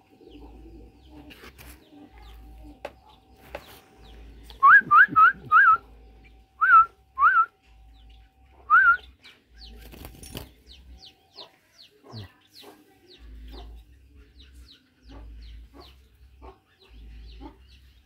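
Seven loud, short rising whistles in two clusters a few seconds in, followed by a small bird's quick, high chirps, about two a second, that fade out near the end.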